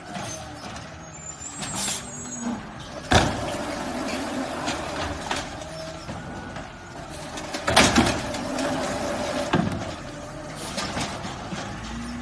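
Garbage truck running, with a loud bang about three seconds in and another, the loudest, about eight seconds in, among smaller knocks.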